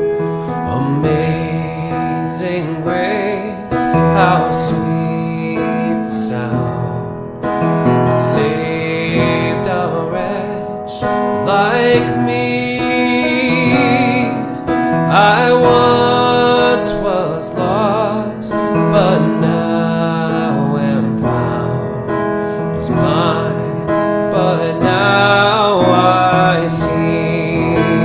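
Worship song played on piano, with a voice singing over it.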